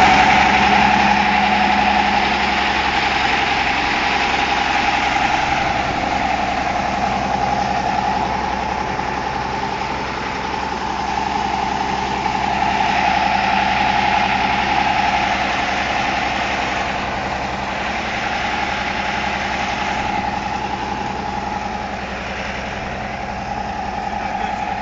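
Engine of a road-construction machine running steadily, with a constant whine.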